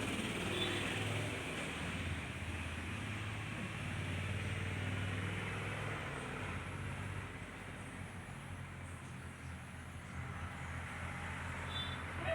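Steady low engine rumble of vehicle traffic under a background hiss, strongest for the first six seconds and then easing off.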